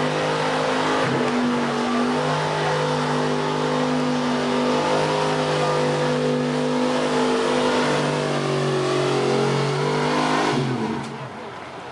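Pickup truck engine running hard at high revs under load, dragging a weight sled. The engine note holds nearly steady with small wavers, then drops away near the end as the truck lets off.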